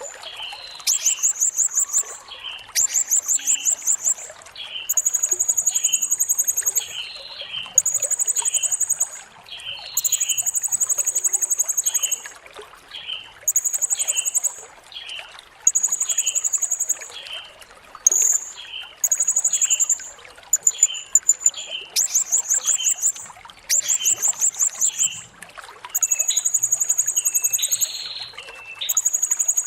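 Blue-crowned hanging parrot (serindit) singing: very high, buzzy trills of one to two seconds, repeated after short gaps, with shorter, lower chirps about once a second, over trickling water.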